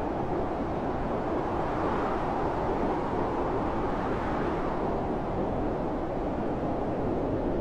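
Blizzard wind blowing as a steady, deep rush of noise, swelling in a gust about two seconds in and easing off by about five seconds.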